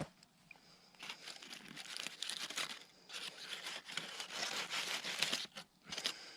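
Irregular rustling and crinkling, the noise of something being handled and crumpled, coming in uneven bursts with short pauses.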